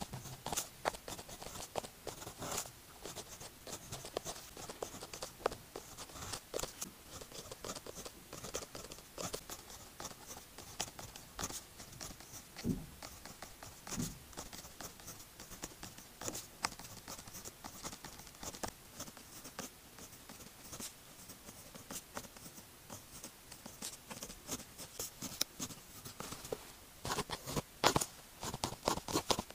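Pilot pen writing by hand on paper: a steady run of short scratchy strokes and light taps of the nib, with a cluster of louder taps near the end.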